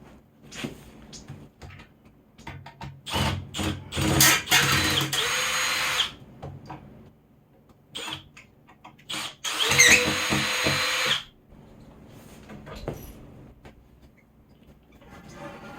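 Power drill run in a few short blips, then in two longer runs of about two seconds and one and a half seconds. Its pitch dips under load during the second run.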